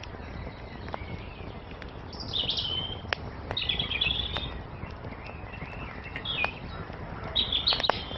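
Songbirds chirping in several short, high phrases over a wood fire crackling, with scattered sharp pops and a low steady rush of flames underneath.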